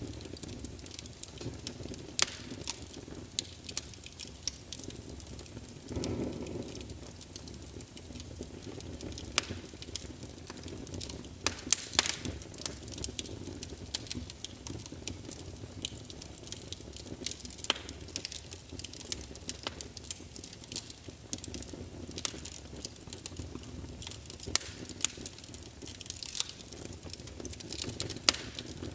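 Fireplace fire crackling, with frequent sharp pops over a low rumble of flames; the rumble swells briefly about six seconds in.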